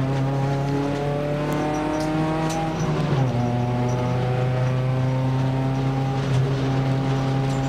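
Nissan March race car's engine heard from inside the cabin, pitch climbing as it pulls through a gear, a gear change about three seconds in, then running steadily at moderate revs on the cool-down lap after the finish.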